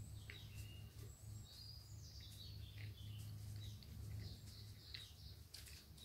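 Faint birdsong of scattered short chirps and twitters, over a low steady hum.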